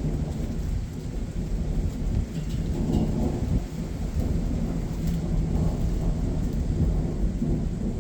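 Thunderstorm: a continuous low thunder rumble with rain falling and a few scattered raindrop ticks.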